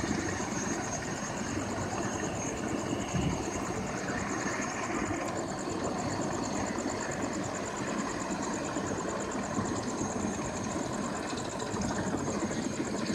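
Medical helicopter running on the ground at idle before lift-off: a steady engine drone with a high whine over it.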